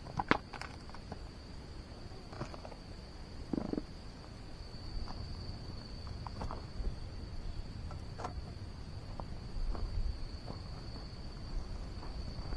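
Insects chirring in a steady high trill, with scattered light clicks and knocks over it.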